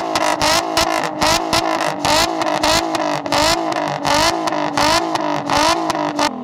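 Infiniti G37's V6 held on a two-step launch limiter, the revs pinned at one pitch and broken by rapid pops and crackles several times a second, then let go near the end.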